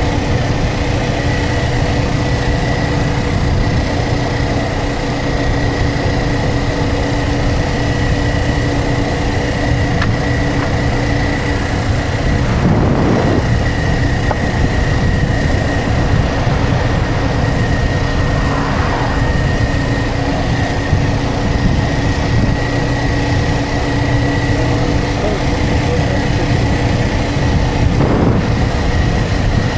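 Motorcycle riding at a steady cruising speed: an even engine drone over rushing road and wind noise, with a brief louder whoosh about halfway through.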